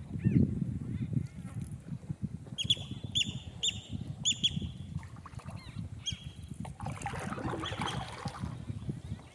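Wind buffeting the microphone with a low rumble, over which a waterbird calls in a quick run of about five sharp calls a couple of seconds in and once more about six seconds in. A short rushing burst follows near the end.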